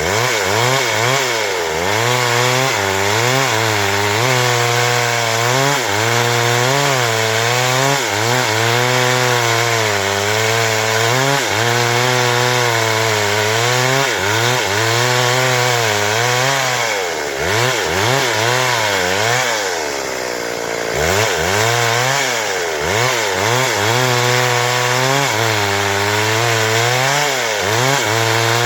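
Stihl MS 382 two-stroke chainsaw cutting wood under load, its engine pitch wavering up and down as the chain bites. About two-thirds of the way through, the pitch drops and then revs back up.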